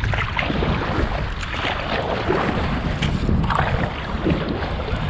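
Wind buffeting the microphone out on open water, with irregular splashing of water throughout.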